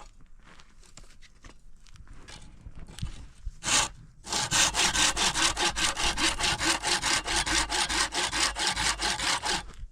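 Hand saw cutting wood. One stroke comes just before the four-second mark, then quick, even back-and-forth strokes start a moment later and carry on; before that there is only faint rustling.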